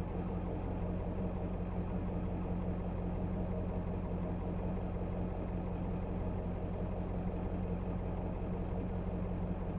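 Truck engine idling steadily, a constant low hum with no change in speed.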